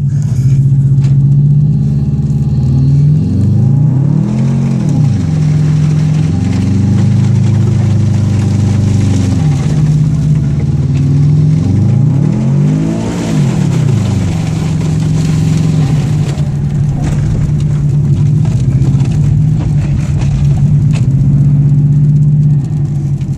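Subaru WRX's turbocharged flat-four engine, heard from inside the cabin, running under steady throttle while driving in snow. The revs swell up and fall back twice, about four seconds in and again around thirteen seconds in.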